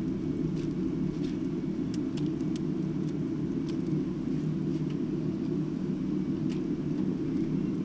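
Campfire burning: sparse faint crackles and pops over a steady low rumble.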